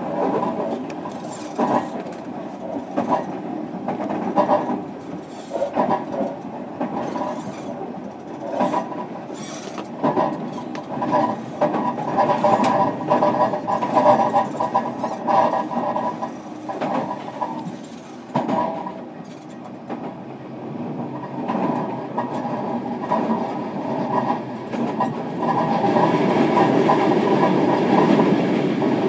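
Interior running sound of a JR Kyushu 305 series electric train, heard from a motor car fitted with Toshiba permanent-magnet-motor VVVF drive. Several steady motor tones hum and swell with the train's power, while the wheels click over rail joints. About 26 seconds in, the rumble turns louder and steadier.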